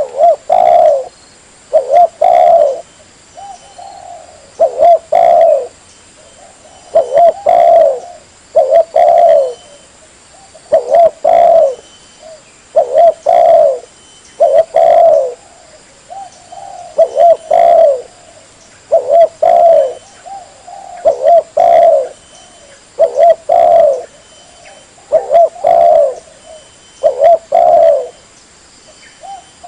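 Spotted dove (tekukur) lure recording: loud, low cooing phrases repeated over and over, about one phrase every two seconds.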